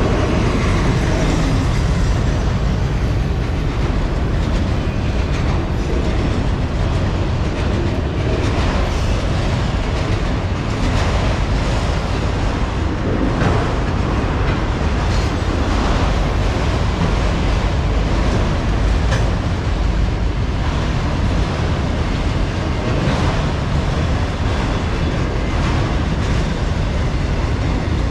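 A Norfolk Southern autorack freight train's cars rolling slowly past: a steady rumble of steel wheels on rail, with scattered clicks and knocks from the wheels.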